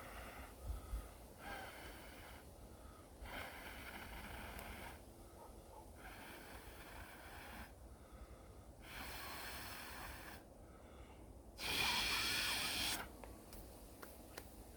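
A person blowing on a small kindling fire in about five separate long breaths, with pauses between them. The last blow, near the end, is the loudest.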